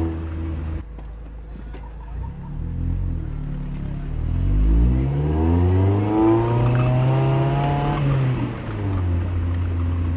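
Mazda Miata NB's four-cylinder engine and exhaust revving up under acceleration, pitch rising through about two gears. It backs off near the end and settles to a low steady drone.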